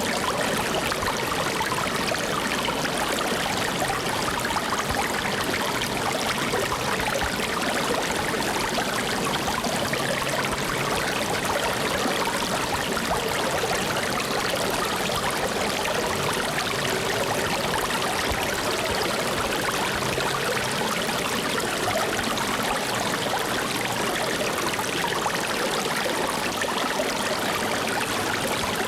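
Flowing stream water running steadily with no pauses: an even rush with trickling detail.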